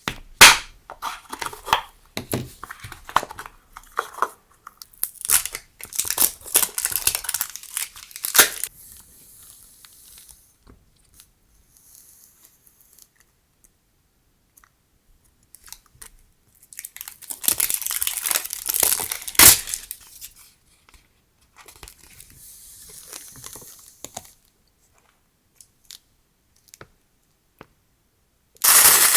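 Packaging crinkling and tearing as it is opened and handled by hand, in bursts with quiet gaps between and one sharp click in the second burst.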